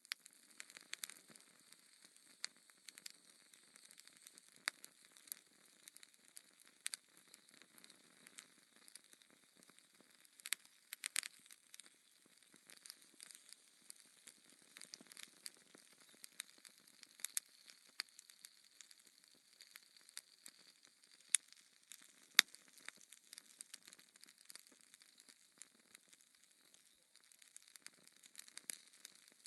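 Wood fire crackling in a fireplace: irregular small pops and snaps over a faint hiss, with a couple of sharper pops about two-thirds of the way through.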